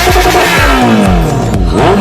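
Honda CBR650F inline-four engine revved up and down in quick repeated sweeps, with electronic music playing over it.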